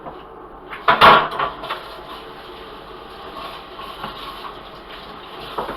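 Kitchen clatter: a loud knock or clatter about a second in, with a few lighter knocks after it, then a steady hiss.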